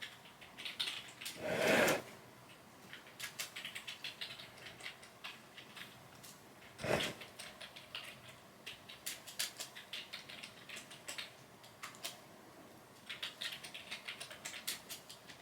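Rapid light clicks and taps of a kitten's claws and paws scrabbling on a hard floor during rough play. A louder scuffling rush comes about two seconds in and a short knock around seven seconds.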